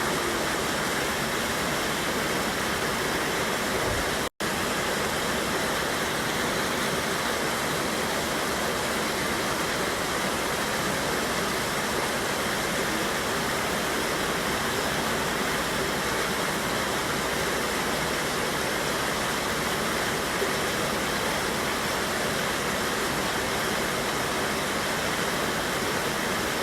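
Steady rushing of a mountain river waterfall, an even wash of water noise with no change in level. It cuts out completely for an instant about four seconds in, then resumes as before.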